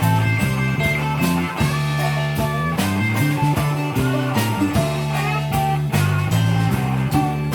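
Live rock band playing: electric bass line and a steady drum-kit beat under guitars, with a melodic lead line that bends in pitch on top.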